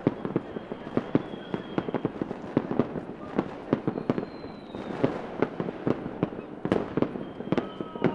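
Fireworks display: many bangs and crackling pops going off at irregular intervals, several a second, with now and then a thin falling whistle.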